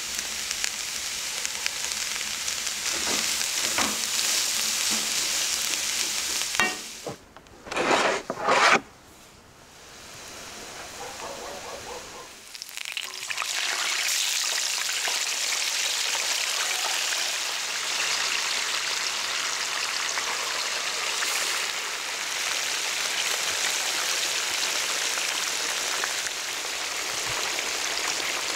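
Chopped vegetables sizzling in oil in a frying pan, then a few short louder noises and a quieter stretch. From about halfway on, whole fish frying in a deep pan of hot oil with a steady sizzle.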